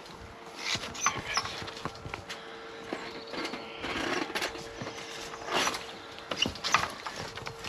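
Footsteps of people walking over uneven ground: irregular steps and scuffs, with a faint steady hum underneath.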